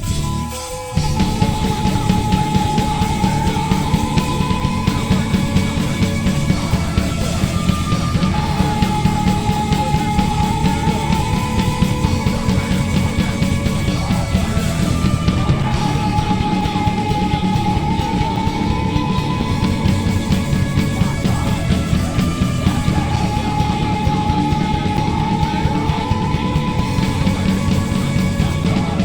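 Live heavy rock band playing loudly, with the full band coming in about a second in. A held, higher melody line comes back roughly every seven seconds over a dense low end.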